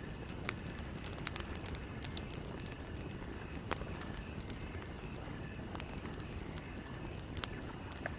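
Campfire burning, with irregular sharp crackles and pops of the wood over a steady low rumble.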